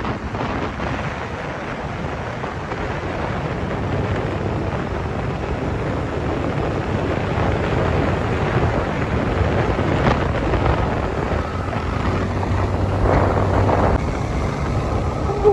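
Wind rushing over the microphone on a moving motorcycle, with steady engine and road noise underneath.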